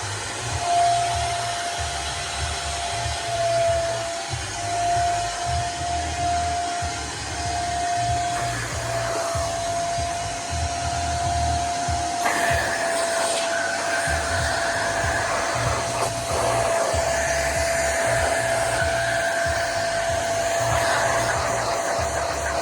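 Nunix wet & dry vacuum cleaner running, a steady motor whine with a rush of air; the pitch dips briefly a few times in the first half, and the airflow rush grows louder about twelve seconds in.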